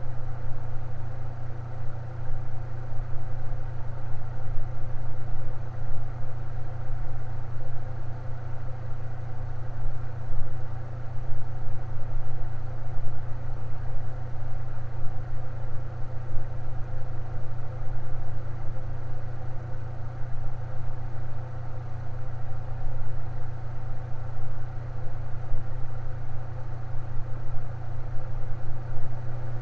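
Electric fan running steadily: a strong low hum with several fainter steady tones above it.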